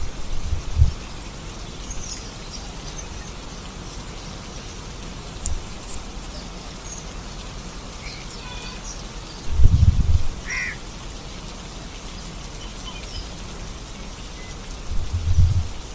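Steady rain falling, with a few short bird calls over it and three brief low rumbles, the loudest about ten seconds in.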